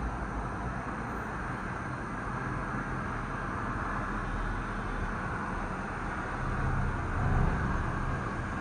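Steady rushing and low rumble of a Disney Skyliner gondola cabin travelling along its cable, heard from inside the cabin, swelling briefly about seven seconds in.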